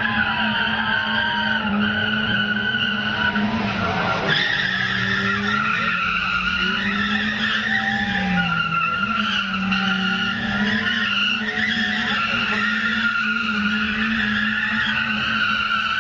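Car drifting: the engine is held at high revs while the rear tyres squeal continuously on the tarmac, with a brief dip in engine pitch about halfway through.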